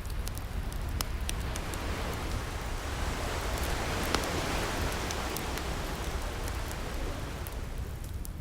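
An ocean wave washes in, building to a peak about halfway through and then receding, over a steady low rumble of surf. Wood fire crackles with scattered sharp pops throughout.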